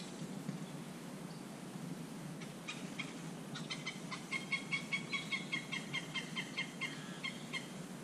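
A bird calling: from about two and a half seconds in, a long run of short, repeated notes, about three a second, lasting some five seconds.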